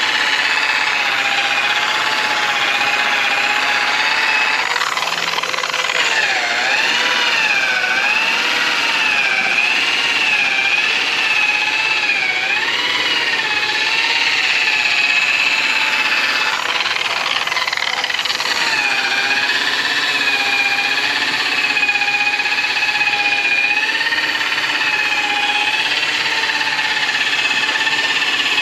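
Electric machine polisher running with a steady whine. Its pitch wavers and dips repeatedly for several seconds partway through as the pad is loaded against the aluminum brightwork, then settles again.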